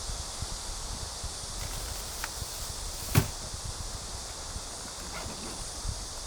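A single sharp knock about three seconds in, over a steady high hiss and a low outdoor rumble, with a couple of faint ticks.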